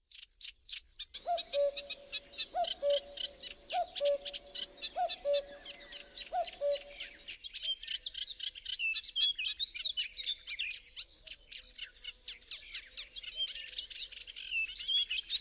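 A common cuckoo calling its falling two-note 'cuck-oo' five times, a little over a second apart, over a dense, busy chorus of small songbirds chattering. The cuckoo stops about halfway through while the chattering goes on.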